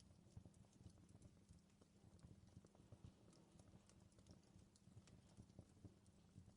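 Faint crackling of a wood fire in a fireplace: irregular small snaps and pops over a low, steady rumble.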